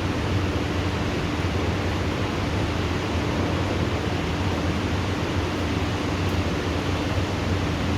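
Heavy rain falling steadily during a thunderstorm, a dense even hiss with no thunder in this stretch, over a faint steady low hum.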